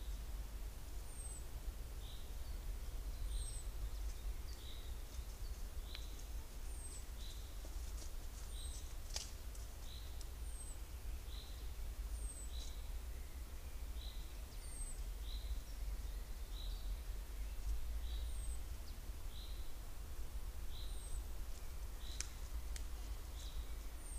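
Woodland birds calling: short high call notes, one of them a quick falling note, repeated roughly every second, over a steady low rumble.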